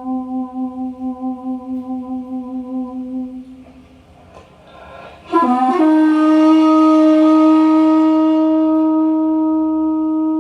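Recording of a daegeum, the Korean large bamboo transverse flute, playing a slow solo improvisation through a hi-fi system: a low held note with a wide, pulsing vibrato fades away to breath, then about five seconds in a sharp attack scoops upward into a loud, bright held higher note.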